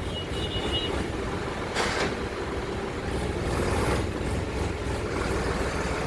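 Road vehicle noise on a highway: a steady low engine rumble, with the rush of a vehicle passing about two seconds in and again around three to four seconds in.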